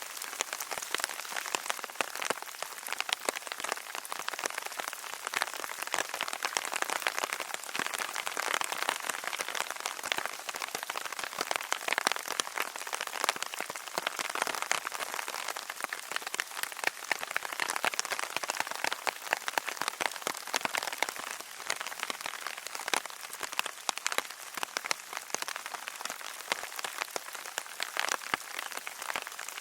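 Steady rain falling, a dense patter of many drops striking a surface.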